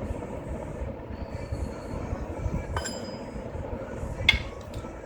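Metal tools and hardware clinking while the engine brackets are unbolted: a ringing clink about halfway through and a sharper, louder clink near the end, over a steady low rumble.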